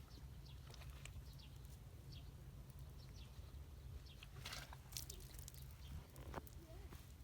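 Faint outdoor ambience: small birds giving short, high chirps scattered throughout, over a steady low rumble, with a few sharp clicks a little past the middle.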